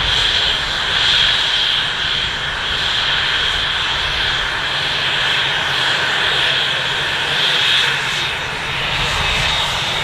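Fixed-wing aircraft engine running steadily, a loud high whine over a low rumble.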